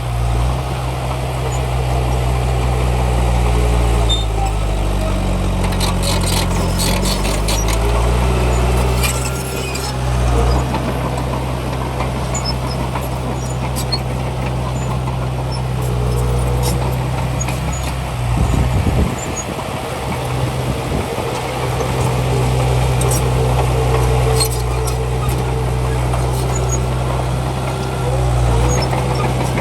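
Heavy diesel engine of earthmoving machinery running under load, its revs dipping and recovering several times, with scattered metallic clanks and a short louder swell about two-thirds of the way through.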